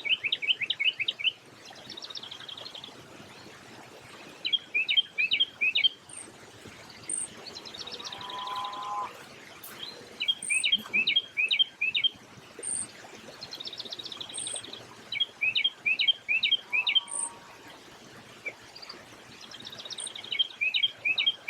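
A songbird singing repeated phrases: a burst of five or six quick rising chirps, then a higher trill, one phrase about every two seconds. A faint, very high peep repeats now and then, and a lower two-note call sounds twice.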